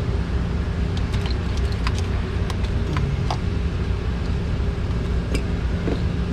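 Steady low machinery hum, with scattered light clicks and taps of small parts and tools being handled.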